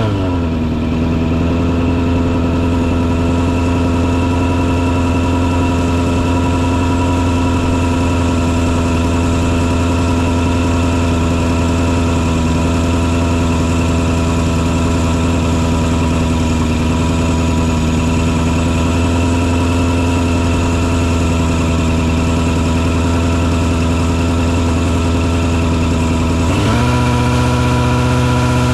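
Engine on a mosquito fogging truck running steadily. Its pitch drops just at the start, holds level, then rises and falls again near the end.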